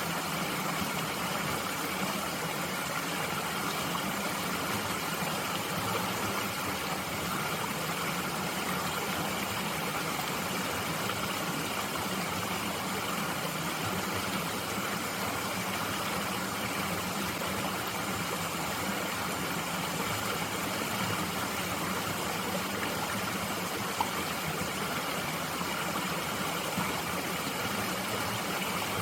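Mountain stream flowing steadily, a continuous rush of running water. A single brief tick about 24 seconds in.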